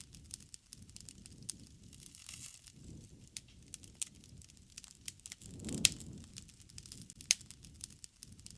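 Wood fire crackling, with sharp irregular pops over a low rush of flame that swells and fades; the loudest swell and pop come about six seconds in.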